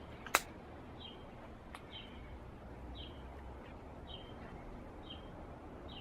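A bird repeating a short, high chirp about once a second over low outdoor background noise, with one sharp click about a third of a second in.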